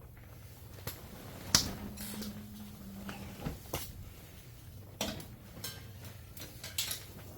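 Pots and utensils being handled over a fire: scattered sharp knocks and clinks, the loudest about a second and a half in, over a low steady hum.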